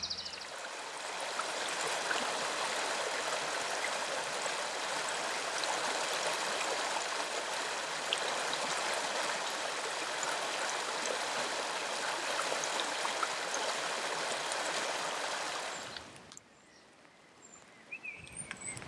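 River water flowing and bubbling as a steady rushing, which cuts off abruptly about sixteen seconds in, leaving a much quieter outdoor background.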